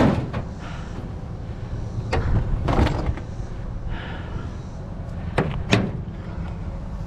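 Several knocks and thumps as a bulky item is shifted and turned in a pickup truck bed: one right at the start, two more about two and three seconds in, and a close pair around five and a half seconds in.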